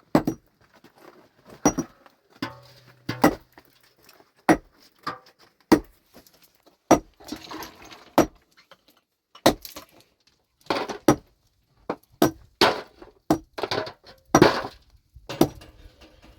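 A pickaxe striking rock in a series of about eighteen sharp blows at uneven intervals, each with a short ring.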